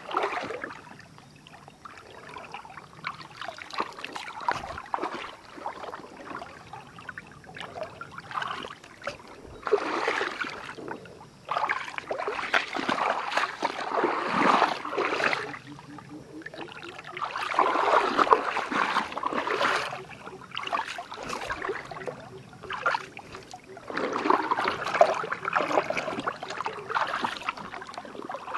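Water splashing and sloshing in irregular bursts of a few seconds each, with trickling between them.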